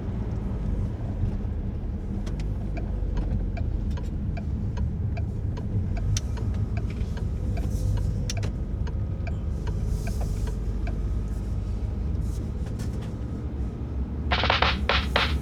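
Car driving at road speed, heard from inside the cabin: a steady low rumble of engine and tyres, with faint, fairly regular ticking through the middle. Music starts about a second before the end.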